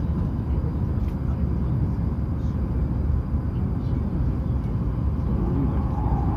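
Hokuriku Shinkansen train running: a steady low rumble of running noise with a faint steady tone above it.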